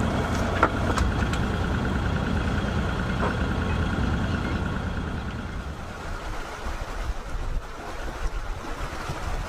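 Sailing yacht's engine running steadily as the boat motors off its berth, with a few light knocks in the first few seconds. It fades to a quieter, rougher rumble about halfway through.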